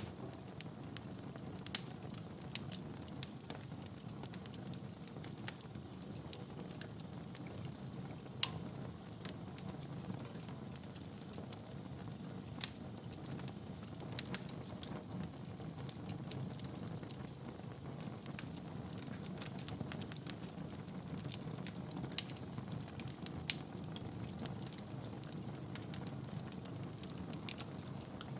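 Wood fire burning in a fireplace: a steady low rush of flame with irregular crackles and occasional sharper pops of the burning logs.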